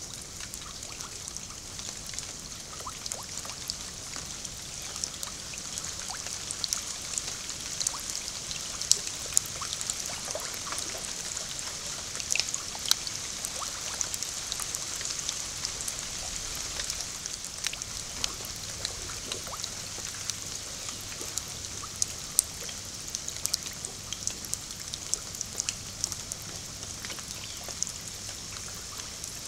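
Rain falling on still swamp water: a steady high hiss with many sharp, irregular drop ticks scattered throughout.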